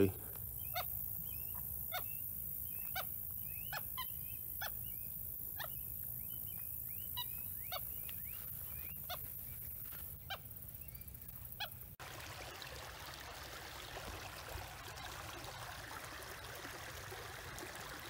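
Marsh birds calling: a short call repeated about once a second, with fainter chirps in between. About two-thirds of the way through, this gives way to a steady rushing hiss.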